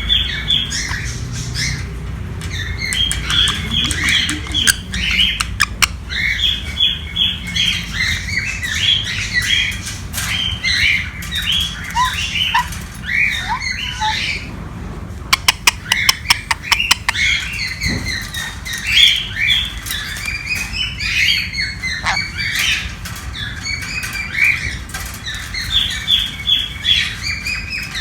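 Sun conure chattering in a steady stream of short, rapid chirps and squawks, broken twice by quick runs of sharp clicks.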